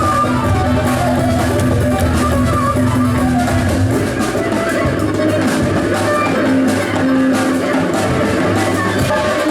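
Live band playing an instrumental piece without a break: a double bass line, drums and percussion under a melody.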